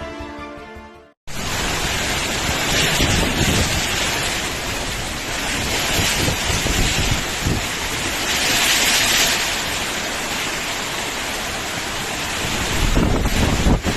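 Background music fades out in the first second. Then a summer storm: strong wind and heavy rain as a loud, steady noise that swells and eases, with the wind buffeting the microphone.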